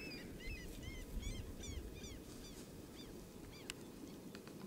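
A bird calling over and over: short, arched, high-pitched calls about three a second, growing weaker near the end. Under it a steady low rumble, and a few sharp clicks near the end.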